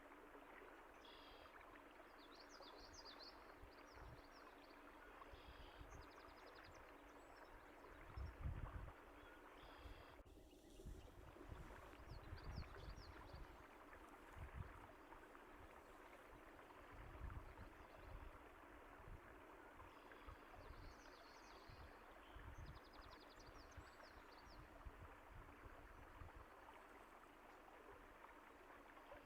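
A stream of running water flowing steadily, with small songbirds giving short high chirps in the first few seconds and again about two-thirds of the way through, and irregular low thumps from about a quarter of the way in.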